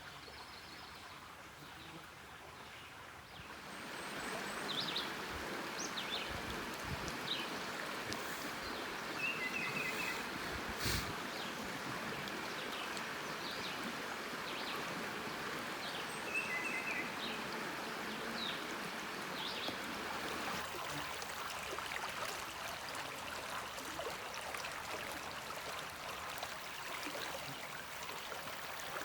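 Steady running water from a stream, growing louder about four seconds in, with short high bird chirps over it and a single click about eleven seconds in.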